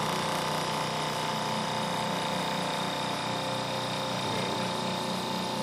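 Solidoodle 3 3D printer running steadily mid-print: its stepper motors and fan give an even mechanical whine with several held tones, the lower one pulsing slightly as the print head moves.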